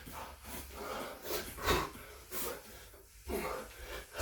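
A man breathing hard between exercise reps: a run of loud, forceful exhalations and gasps, several per second at times. He is out of breath from the workout.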